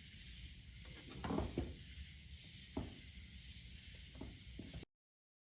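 Faint handling noises of hands and tools working on engine parts: light rubbing with a few sharp clicks and knocks. The sound cuts off to dead silence near the end.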